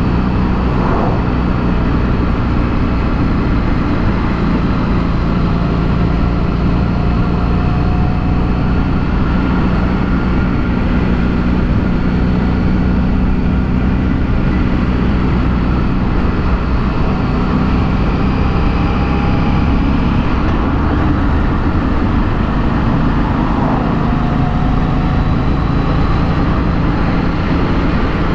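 2016 Harley-Davidson Street 500's liquid-cooled V-twin running through its stock exhaust while riding, heard from a helmet chin mount with wind noise. The engine note holds steady, with its pitch rising briefly a few times as the throttle and gears change.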